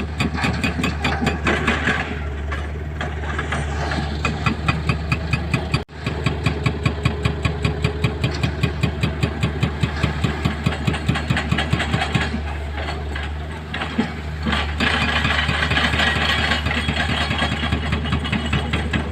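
Excavator diesel engine running steadily, with a rapid regular pulsing of about four or five beats a second through much of it and a brief break about six seconds in.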